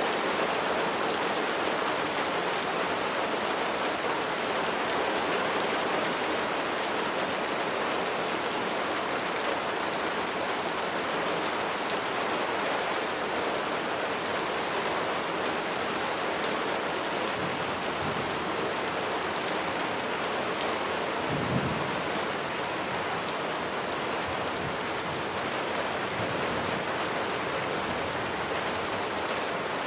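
Steady rain falling on a surface, an even hiss scattered with the patter of individual drops. A short low rumble comes about two-thirds of the way through.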